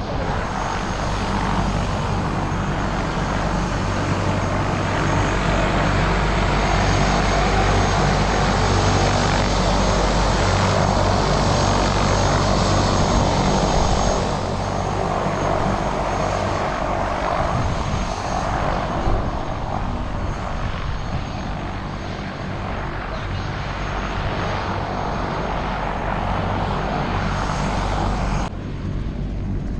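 Helicopter engine and rotor running steadily, with the sound changing abruptly about halfway through and again near the end.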